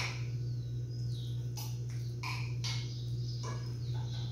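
Birds chirping in short calls, some sliding down in pitch, over a steady low hum.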